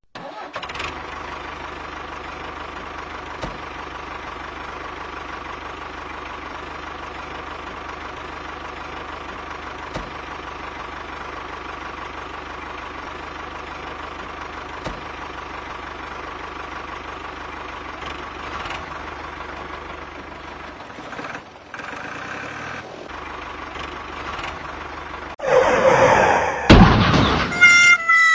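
A motor runs with a steady hum and a constant whine, dropping out briefly about three quarters of the way through. Near the end a much louder sound sweeps down and back up in pitch.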